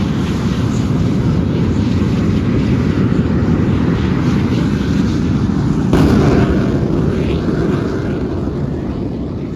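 Twin Rolls-Royce jet engines of the Aftershock jet-powered fire truck running in a loud, steady roar, with a sudden bang about six seconds in. The roar slowly fades near the end.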